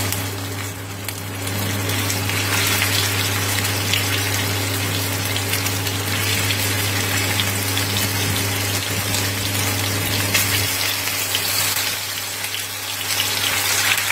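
Pork-wrapped quail-egg meatballs sizzling in hot oil in a nonstick frying pan as they are laid in one after another. A steady low hum runs underneath and weakens about ten seconds in.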